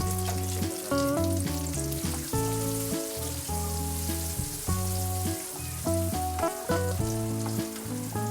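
Instrumental background music with a changing melody, over the sizzle and crackle of a tempering: cumin, curry leaves and chopped red chilli frying in hot oil.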